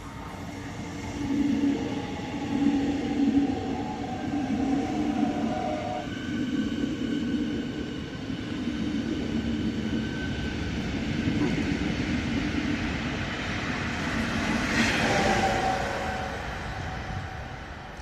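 Berlin S-Bahn electric train running along the track, its traction motors sounding in several steady whining tones over the rumble of the wheels. The sound swells to its loudest near the end, then fades.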